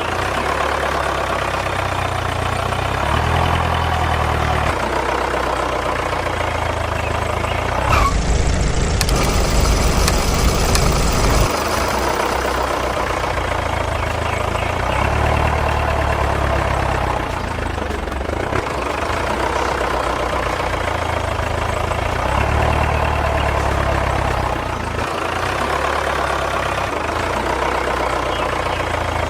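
Tractor engine running, its low note stepping up and down every second or two, with a rougher, louder stretch about eight seconds in that lasts a few seconds.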